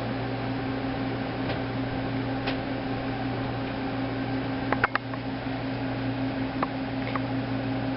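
Steady electrical hum and fan noise from equipment, with a few light clicks scattered through it.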